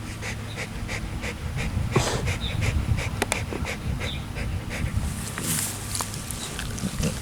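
A dog panting quickly, about three breaths a second.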